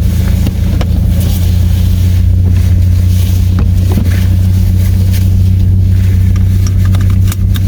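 Car driving slowly on a snow-covered road, heard from inside the cabin: a steady low drone of engine and road noise, with a few small clicks and knocks scattered through it.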